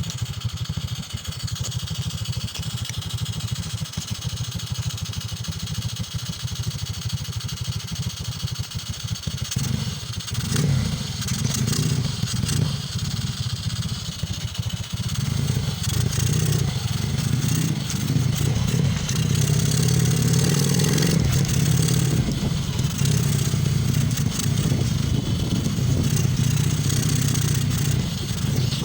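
Motorcycle engine running as the bike is ridden carrying a load of rice, with rattling and wind noise. The engine swings up and down around ten seconds in, then runs louder and steadier through the second half.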